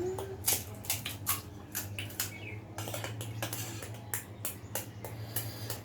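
Irregular sharp clicks and crunches of crisp pani puri and chatpate being handled and eaten, a few each second, over a steady low hum.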